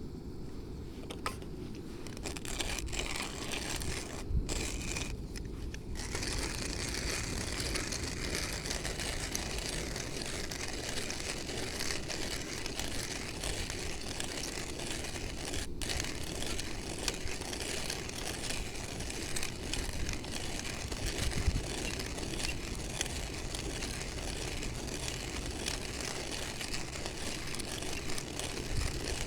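Hand coffee grinder crunching whole beans: a steady, grainy grinding that sets in a few seconds in after a few light knocks.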